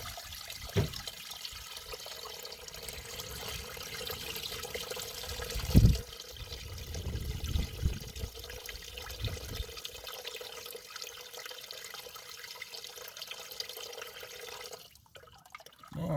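Water mixed with a little oil pouring steadily out of the drain of a Massey Ferguson 35's crankcase into a container. The crankcase is full of water from years of standing. A few low knocks sound in it, the loudest about six seconds in, and the stream stops near the end.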